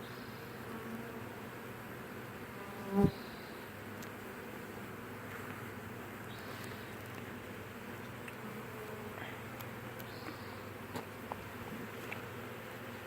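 Honeybee swarm buzzing, a steady low hum of many bees as they are hived. A single brief loud blip about three seconds in, with a few faint ticks later.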